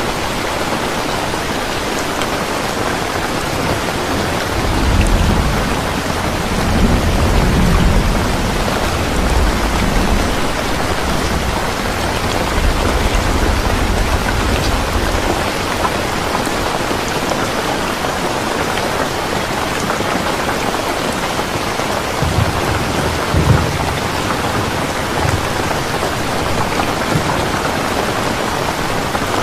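Steady heavy rain hissing, with low rolls of thunder rumbling from about four seconds in to about sixteen, and again briefly near the end.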